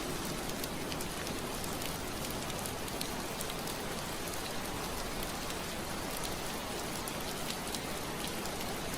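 Steady rain falling on window glass: an even hiss with many small, sharp drop ticks scattered through it.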